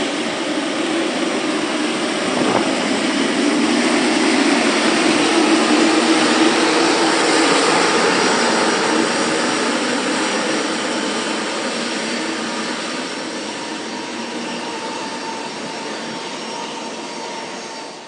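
Jet airliner engines running at high power: a loud, steady noise with whining tones, swelling over the first few seconds and then slowly fading.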